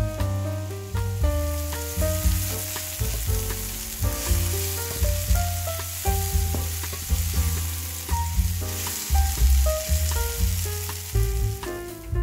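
Sliced mushrooms sizzling in a frying pan, with scraping and stirring from a wooden spatula. Background music with melody notes and a pulsing bass line plays throughout.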